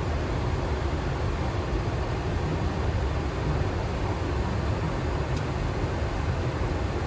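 Steady cockpit noise on a Boeing 737 flight deck in descent: an even low rumble with rushing air noise above it.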